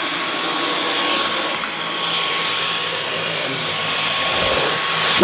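Dyson V11 cordless stick vacuum running steadily on low-pile carpet: an even rush of suction with a thin steady motor whine. A brief thump comes right at the end.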